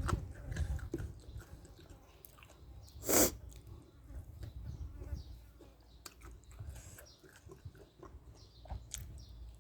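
A person chewing food close to the microphone, with small wet clicks and one short, loud rush of sound about three seconds in.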